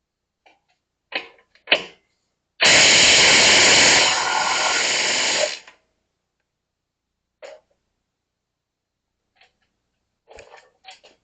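A power tool runs steadily for about three seconds, dropping in level partway through, with a few clicks and knocks of tools handled before and after.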